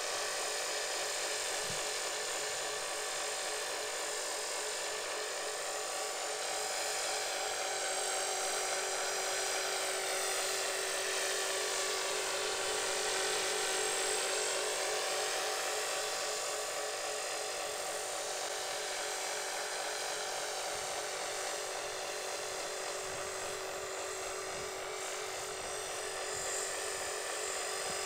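Electric Align 450 RC helicopter in flight: a steady high whine of motor, gears and rotor blades, its many pitches bending lower and back up a couple of times as it manoeuvres.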